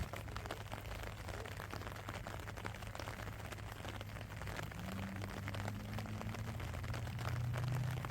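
Rain falling, with many small drop ticks, over a steady low hum that grows a little louder near the end.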